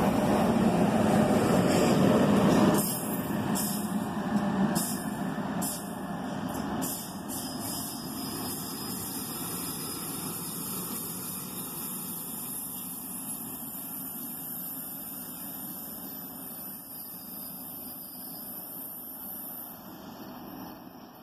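NJ Transit double-deck push-pull train with an ALP-46 electric locomotive on the rear pulling away: a loud rumble of wheels on rail as the last of it passes, which drops off sharply about three seconds in. A few sharp ticks follow, and then the train noise fades steadily as it recedes.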